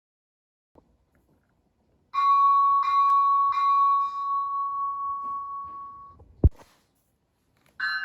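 Locomotive bell sound from an ESU LokSound 5 sound decoder for a Rapido F40PH: three strokes about two-thirds of a second apart, then the ring fades away. A sharp click follows, and near the end a different bell starts striking at the same pace.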